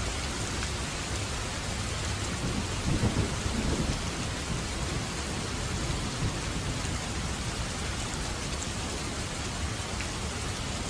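Heavy rain falling steadily, with a roll of thunder rumbling low about two and a half seconds in and fading by about four seconds.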